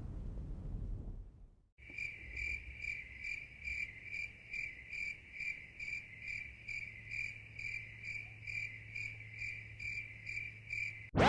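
Cricket chirping in a steady, even rhythm of about two chirps a second, starting about two seconds in. It follows a low rumble that fades out at the start.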